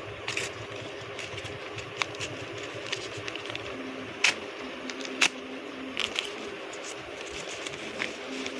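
An unidentified bird giving short, sharp chip-like calls at irregular intervals, the two loudest about four and five seconds in, over a steady low hum.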